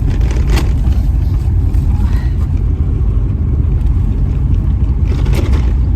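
Steady low rumble of a car driving, heard from inside the cabin, with a couple of faint brief rattles.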